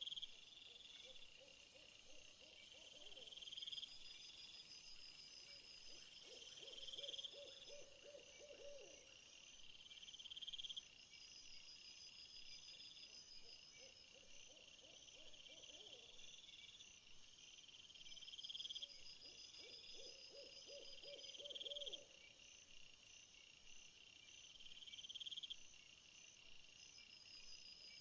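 Faint night chorus of crickets and other insects trilling in repeated phrases over a high steady buzz. A lower trilling call comes in about every six seconds, each one lasting about two seconds.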